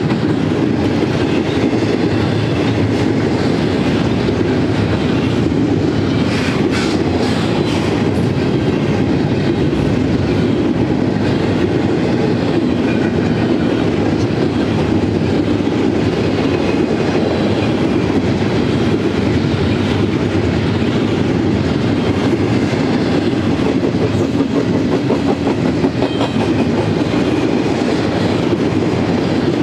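Loaded double-stack container train's well cars rolling past, a steady rumble of steel wheels on the rails with a few sharper clacks about six to eight seconds in.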